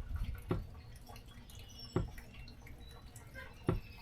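Water dripping slowly, three heavy drops about one and a half seconds apart.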